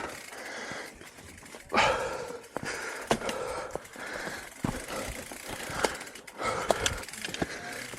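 A mountain-bike rider breathing hard while pedalling uphill, each breath a long hiss, mixed with scattered clicks and rattles from the bike on the rough trail.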